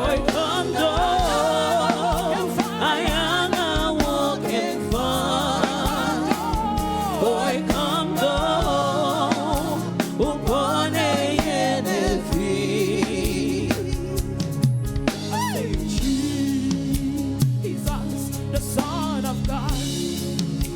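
Gospel praise-and-worship music: a singer's voice with vibrato over a band with drums keeping a steady beat.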